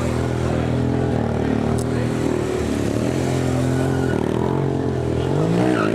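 Motorcycle engines running steadily, with the revs blipped up and down a couple of times, most clearly about five seconds in.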